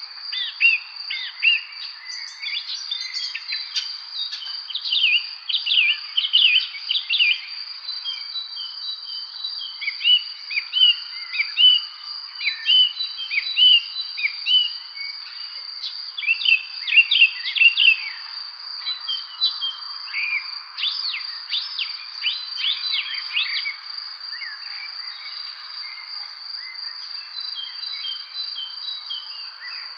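Songbirds chirping in many quick, falling notes over a steady high-pitched insect trill. The chirping thins out for a few seconds near the end, then picks up again.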